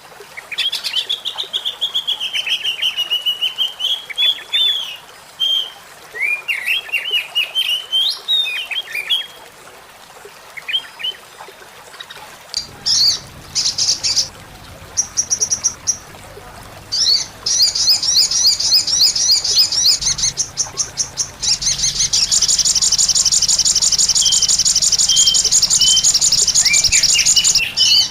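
Small songbirds calling, played as a lure call for small wild birds: first a run of high warbling chirps and whistles. About twelve seconds in it cuts to another recording of rapid, buzzy high trills. This ends in one long unbroken trill over the last several seconds.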